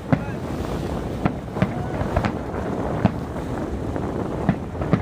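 Fireworks display: aerial shells bursting in a string of sharp bangs at uneven intervals, about seven in five seconds, over a steady rush of wind on the microphone.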